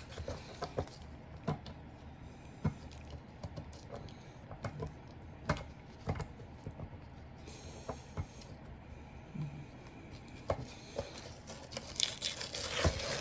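Protective paper being picked at and peeled off an acrylic stamping platform by hand: scattered small clicks and light scratching, with a longer rasp of the paper tearing near the end as it comes off in pieces.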